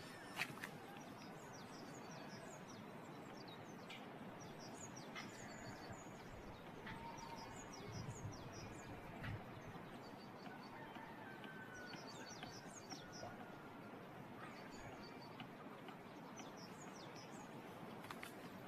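Small birds chirping in many short, high notes, scattered and overlapping, over a faint steady background hiss. A single sharp click about half a second in.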